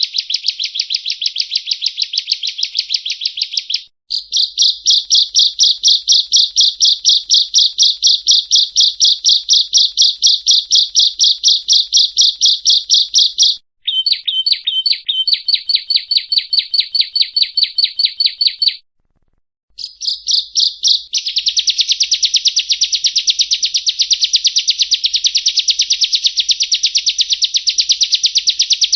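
Yellow-bellied prinia (prenjak rowo) singing: high, rapidly repeated notes in long, loud runs. The song breaks off briefly about 4 and 14 seconds in, and again for about a second near 19 seconds.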